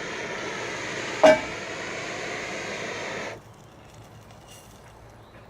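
Gas canister camp stove burner hissing steadily, then shut off suddenly about three seconds in. A single loud sharp click sounds about a second in.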